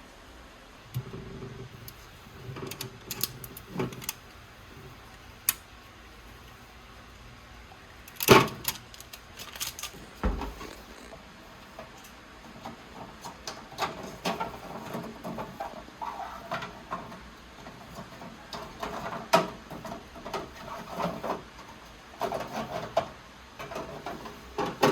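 Household handling sounds: scattered clicks and knocks with some rustling, and one loud knock about eight seconds in.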